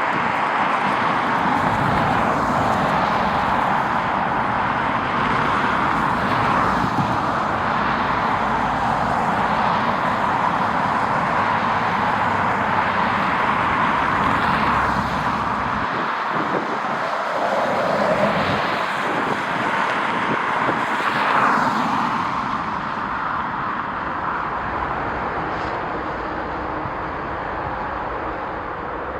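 Jet airliner engines, a steady rushing noise that eases slightly over the last several seconds.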